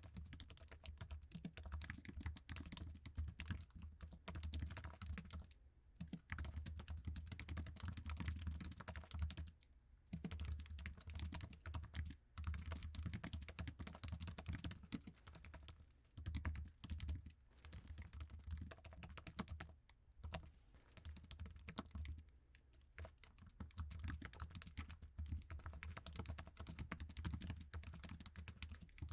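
Rapid, continuous typing on Apple's stock iMac keyboard, keys clicking in quick runs broken by a few brief pauses.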